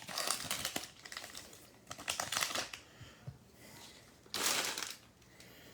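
Crinkling plastic wrapper and rustling trading cards as a pack of baseball cards is opened and handled, in irregular bursts with the loudest about four and a half seconds in.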